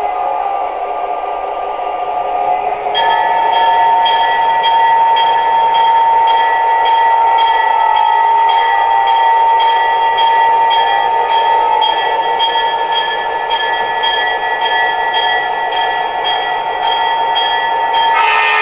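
O-gauge model diesel locomotive running on track, its onboard sound system playing diesel engine sound. About three seconds in a steady high whine starts and holds, over faint regular clicking from the track. A short louder burst comes near the end.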